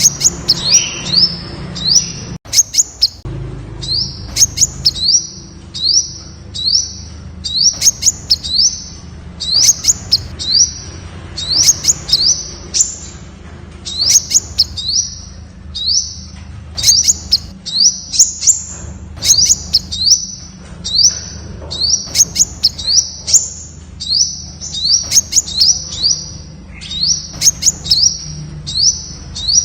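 Temminck's sunbird calling: a rapid series of short, high chirps, each a quick upward sweep, coming in quick runs of two to four with brief gaps. A faint steady low hum lies underneath.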